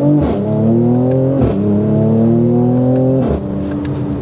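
Mercedes-AMG C43's 3.0-litre twin-turbo V6 under hard acceleration, heard from inside the cabin. Its pitch climbs through the revs and drops at three quick upshifts, with a short exhaust spit at each shift. After the last shift it eases off near the end.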